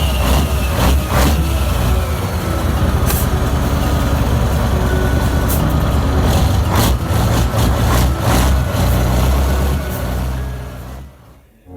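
Scania 142H truck's V8 diesel running, a loud steady low drone with scattered sharp clicks and knocks over it, fading out over the last second or two.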